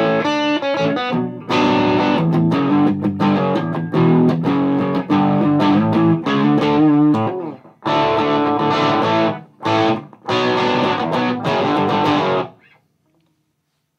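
Electric guitar (Gibson Les Paul) through a Mesa Boogie Dual Rectifier amp and Marshall 1960A cab, set to 50 watts in Spongy mode, playing chords and riffs in phrases with short breaks. The playing stops shortly before the end.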